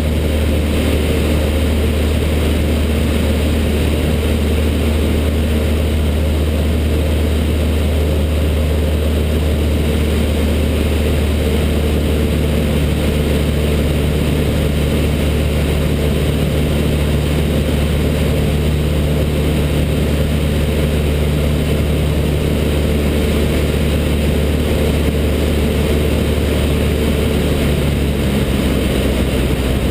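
Cessna 152's four-cylinder Lycoming O-235 engine and propeller running a steady drone in flight, with a slight shift in its tone near the end.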